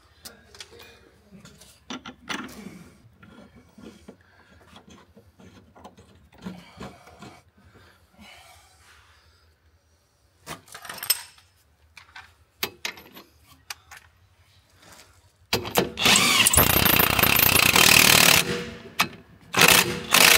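Scattered knocks and clicks of hand-tool work, then a loud power tool runs for about three seconds and again for about a second near the end.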